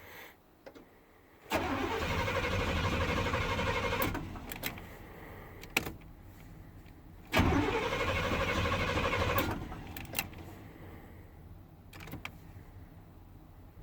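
A cold 1990 Chevy 350 throttle-body-injected V8 being cranked by its starter in two tries of about two seconds each, each beginning with a rising starter whine. The engine turns over but does not catch, the cold crank-no-start fault.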